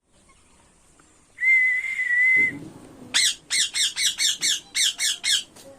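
A long steady high whistle lasting about a second, then an Indian ringneck parrot's rapid series of about ten loud, harsh squawks, roughly four a second.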